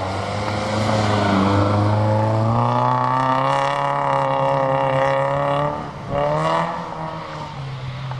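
Small hatchback's engine revving hard under acceleration: the pitch climbs over the first few seconds and holds high. It dips sharply about six seconds in, rises again briefly, then eases off.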